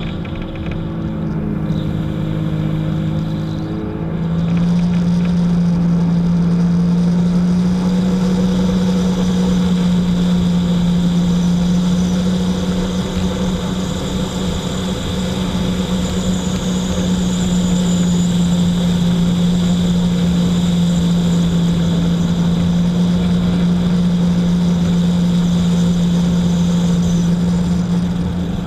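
Jet ski engine running under steady throttle. About four seconds in it picks up slightly in pitch and gets louder, then holds an even drone.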